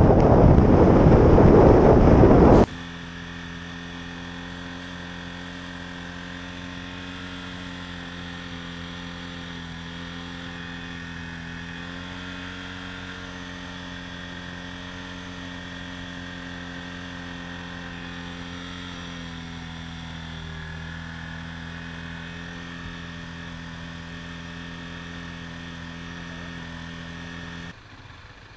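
Loud wind rush on the microphone of a moving motorcycle, which cuts off abruptly about two and a half seconds in. It gives way to a much quieter steady mechanical hum of several held tones, which drops away just before the end.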